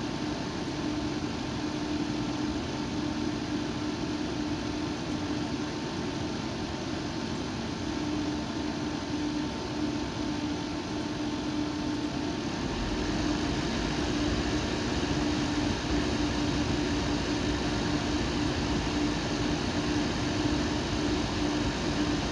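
Air-cooled AMD Ryzen PC's fan running with a steady hum and whoosh, then stepping up to a louder, higher speed about twelve seconds in as the fan mode is changed.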